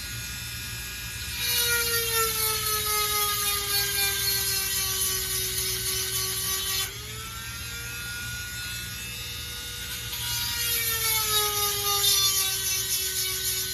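Dremel rotary tool with a 7/32 grinding stone sharpening chainsaw chain teeth: a steady motor whine with a grinding hiss. Twice the whine gets louder and its pitch sags as the stone bears on a tooth. In between it runs lighter and higher.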